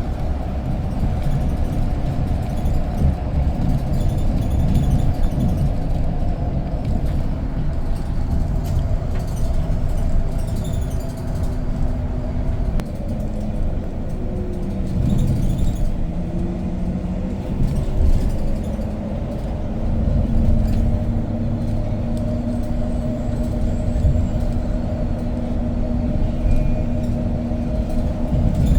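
City bus running: a steady low engine and road rumble, with an engine hum that shifts in pitch now and then.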